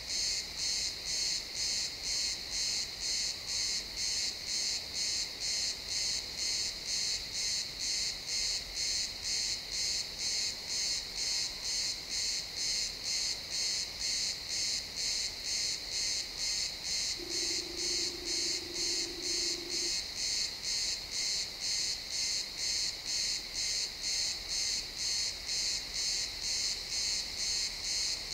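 Crickets chirping in a steady, even rhythm of about two pulses a second, high-pitched. A faint low hum comes in for a few seconds about two-thirds of the way through.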